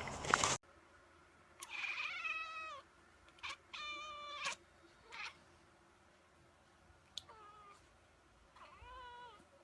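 A domestic cat meowing about six times, with pauses between the calls. The longest meows last about a second and the others are short. A brief noisy passage at the very start cuts off abruptly.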